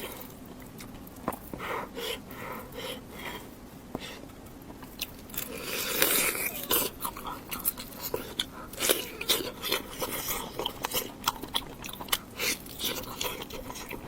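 Close-up eating sounds: repeated bites, crunches and wet chewing, with a louder, longer crunch about six seconds in.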